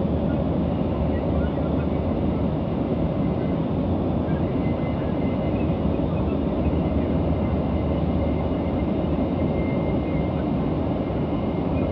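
Steady drone of a Boeing 737's jet engines and rushing air, heard from inside the passenger cabin as the airliner climbs out after takeoff.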